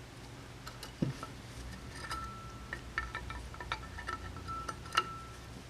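A few light metallic taps and clinks from small tools and rifle parts being handled during stock disassembly, with a thin, high ringing tone lingering through the middle.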